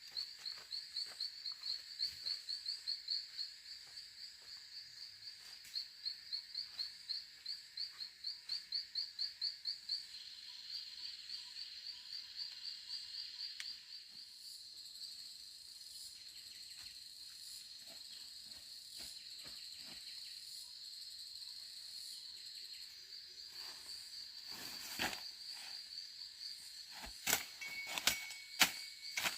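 Outdoor insect chorus: a steady high-pitched buzz with runs of rhythmic chirps at about four a second, fading to the steady buzz after about ten seconds. A few sharp clicks or knocks come near the end.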